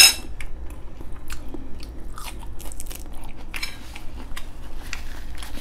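Close-up chewing of red-braised pork ribs: many small wet clicks and smacks of mouth and teeth. A sharp metal clink of cutlery on a plate right at the start.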